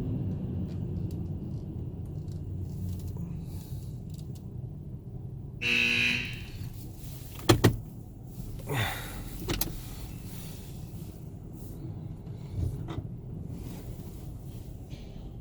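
Idling minivan heard from inside its cabin: a steady low rumble. About six seconds in there is a short tone, followed by two sharp clicks and a couple of brief swishes.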